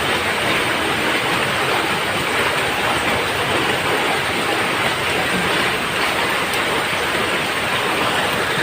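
Steady heavy rain falling on a roof, a dense even hiss of drops.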